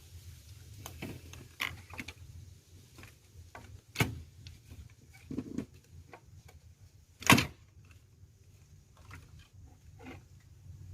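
Scattered clicks and knocks of small parts being handled on a workbench over a steady low hum, the loudest knock about seven seconds in.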